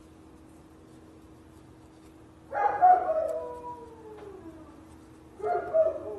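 A dog whining twice, each call sliding down in pitch, the first louder and longer, over a faint steady hum.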